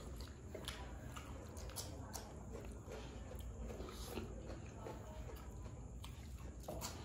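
People eating fried rice by hand: close chewing and wet mouth sounds, with scattered short clicks as fingers scoop from steel plates.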